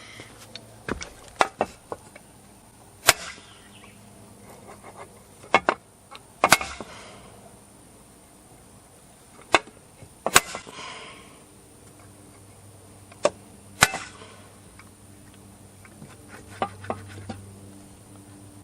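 A hammer striking a screw set in the end of a chainsaw's stuck crankshaft, sharp single knocks and quick pairs every few seconds, to free the shaft so it turns in the freshly closed crankcase.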